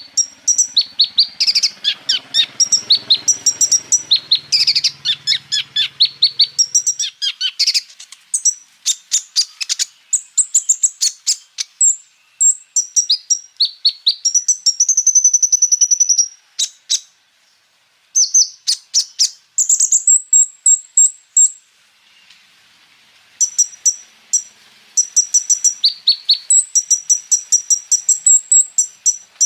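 A kolibri ninja (konin) sunbird singing a rapid run of high-pitched chirps, sweeps and trills, with two brief pauses about two-thirds of the way through.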